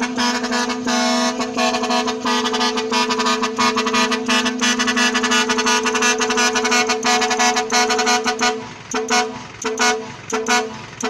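Truck air horn held in one long steady blast for about eight seconds, then sounded in a run of short toots.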